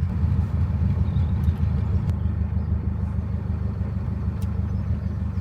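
Narrowboat's diesel engine running steadily, a low even hum, with a few faint clicks over it.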